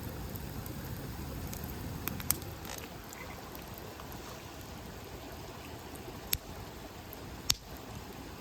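Wood campfire burning: a steady low rush of flame with scattered crackles and a few sharp pops, two about two seconds in and the loudest near the end.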